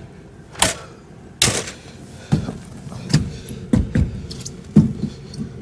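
A series of sharp knocks and clunks from objects being handled, about one a second.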